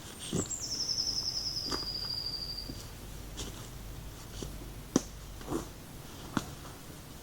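A small songbird's high, rapid trill, sliding slightly down in pitch over about two and a half seconds, over footsteps on the forest floor, with a few sharp cracks later on.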